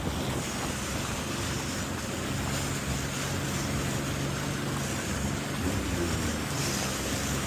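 Jet ski engine running at a steady cruising speed, with water rushing past the hull and wind buffeting the microphone.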